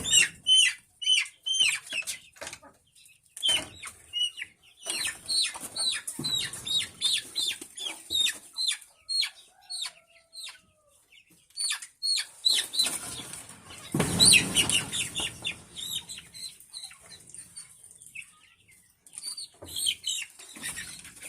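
Chickens calling in a string of short, high, falling peeps and clucks, with a burst of wing flapping about fourteen seconds in.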